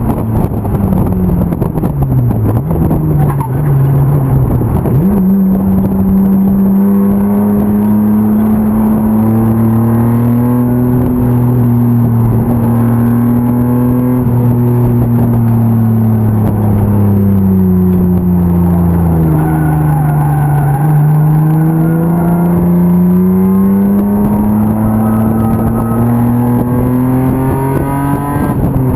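BMW M50 straight-six in an E36 race car under racing load. Its pitch drops steeply as it slows, jumps up sharply about five seconds in, then holds. After that it sags slowly and climbs steadily, falling off sharply right at the end.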